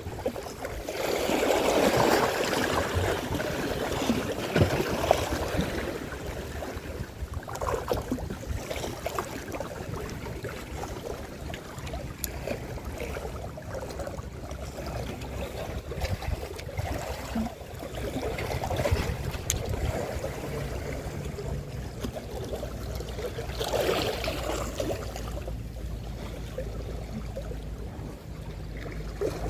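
Wind gusting on the microphone over the wash of sea water, swelling louder a couple of times.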